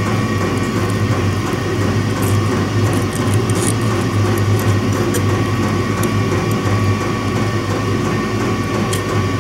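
A steady machine hum with a strong low drone and thin higher tones, unchanging throughout, with a few faint clicks.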